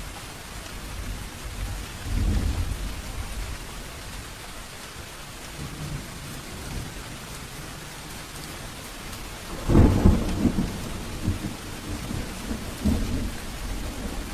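Steady rain with thunder: a low rumble about two seconds in, then a louder thunderclap near ten seconds that rolls on in several rumbles to the end.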